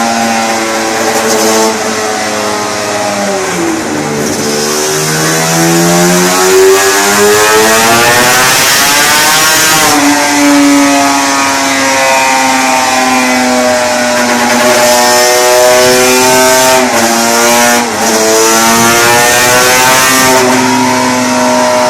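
Two-stroke motorcycle engine running under load: the revs sag about four seconds in, climb steadily for several seconds, then drop sharply and hold steady, with two quick dips in pitch near the end, like a bike being ridden through its gears.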